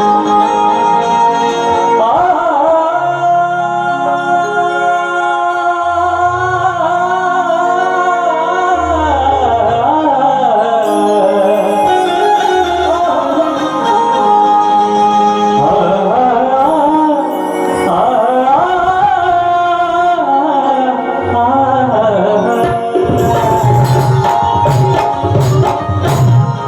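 A singer's alap, a long ornamented line that wavers and bends in pitch, over sustained low instrumental notes. Drum strokes come in near the end.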